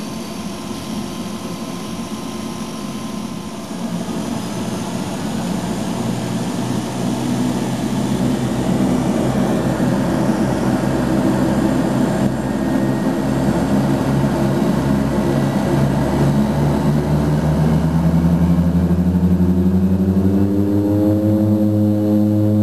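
De Havilland Canada DHC-6 Twin Otter's twin turboprops heard from inside the cabin, their power being increased for take-off. The engine and propeller drone grows louder from about four seconds in, and near the end its pitch rises as the engines come up to full power.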